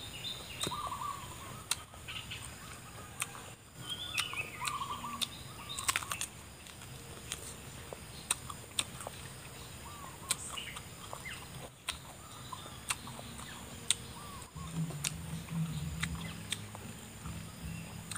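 Close-up chewing of raw green banana: repeated sharp, crisp clicks of biting, crunching and mouth smacking. Birds call in the background.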